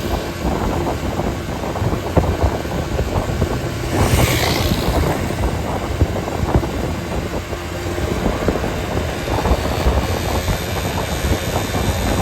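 Steady rumble of road traffic or a moving vehicle's engine and tyres, with a brief hiss about four seconds in.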